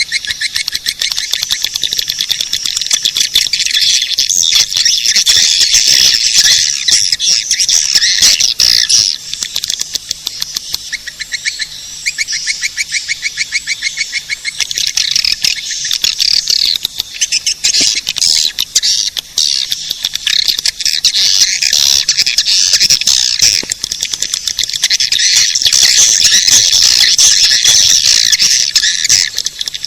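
Swiftlet lure call: many swiftlets twittering without a break in high chirps and fast buzzing trills, the sound played to draw swiftlets into a nesting house.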